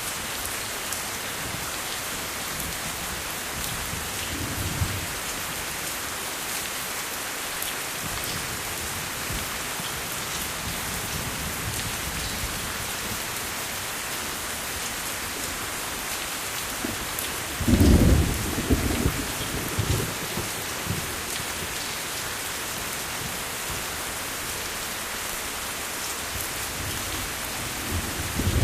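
Steady rain falling, an even hiss throughout. Thunder rumbles in it: faintly about five seconds in, loudly about two-thirds of the way through, and again near the end.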